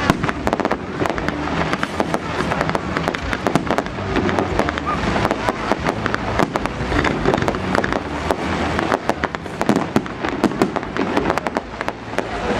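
Fireworks going off: a dense, continuous run of sharp bangs and crackles, many each second.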